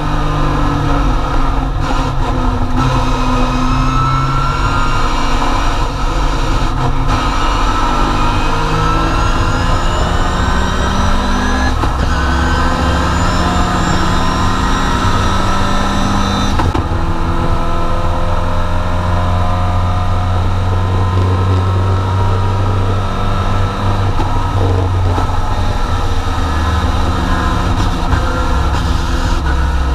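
Triumph TR4 race car's four-cylinder engine heard from inside the cabin at racing speed, its note climbing steadily through the revs for several seconds at a time, broken by a few brief drops.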